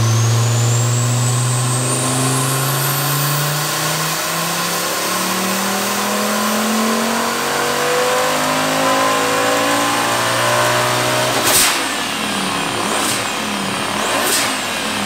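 Turbocharged VW 07K 2.5-litre inline five-cylinder making a full-throttle pull on a chassis dyno, its pitch climbing steadily, with a high whine rising over the first few seconds. About eleven seconds in it lifts off with a sharp crack, and two more sharp pops follow as it winds down.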